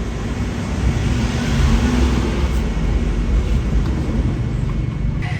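Car engine running with a dense low rumble, swelling a little louder about two seconds in.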